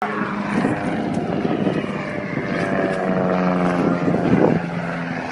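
Aircraft engine running with a steady, pitched drone, with a brief louder burst about four and a half seconds in.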